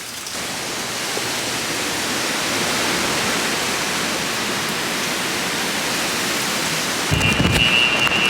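Heavy hurricane rain falling in a steady, even hiss that swells slightly over the first few seconds. About seven seconds in, low rumbling sets in, along with a high steady tone.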